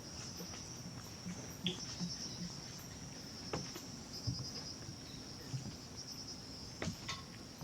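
Chorus of insects trilling steadily at a high pitch, in stretches with a fast pulsing rhythm. A few soft knocks are heard midway and near the end.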